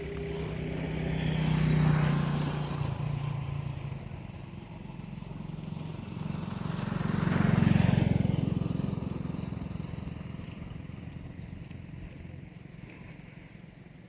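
Two motor vehicles passing by one after the other, each engine growing louder and then fading away; the first peaks about two seconds in, the second, slightly louder, around eight seconds in.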